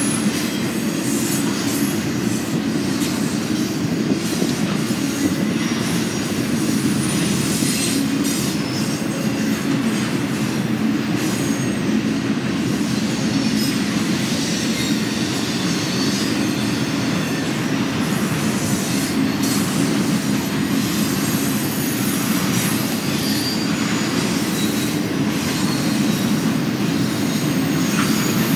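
Freight trains rolling past at a steady pace: a continuous rumble and rattle of railcar wheels on the rails that holds an even level throughout.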